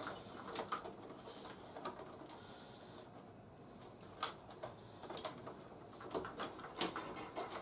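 Scattered small plastic clicks and taps as a jointed action figure is posed and fitted into a plastic toy helicopter, a few sharper clicks about four and six seconds in.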